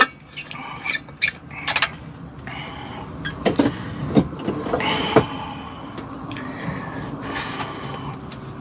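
Scattered clicks, knocks and brief scrapes of things being handled in a truck cab, over a steady low hum.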